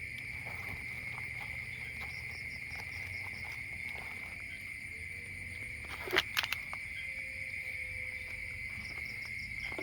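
Chorus of night insects, a steady high-pitched drone with faint pulsing trills above it. A few sharp clicks about six seconds in are the loudest sound.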